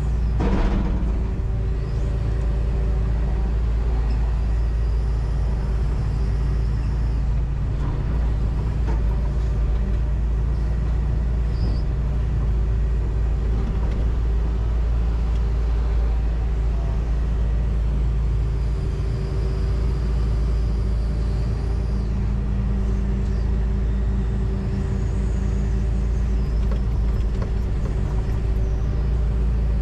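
John Deere 245G excavator's diesel engine running steadily, heard from inside the cab as a deep drone. About half a second in there is a short falling sweep, and a faint high whine comes and goes twice.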